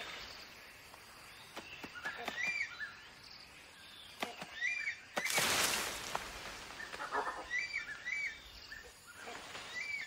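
Rainforest ambience with a bird repeatedly giving short, high chirps, in pairs and singly. A one-second burst of noise comes about five seconds in.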